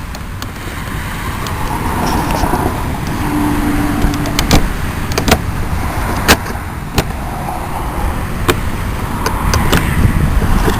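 Rumble of road traffic passing, swelling and fading twice, with several sharp clicks from handling the scooter's plastic cowling pieces and clips.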